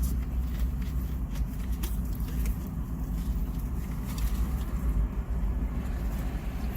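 Steady low rumble of a running engine, with a few faint clicks and rustles.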